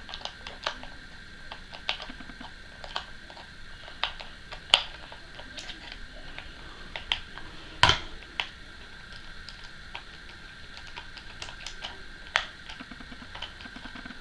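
Irregular small clicks and taps of a UTG bipod's swivel-stud mount being handled and worked into place on a rifle, one sharper knock a little past halfway, over a faint steady high tone.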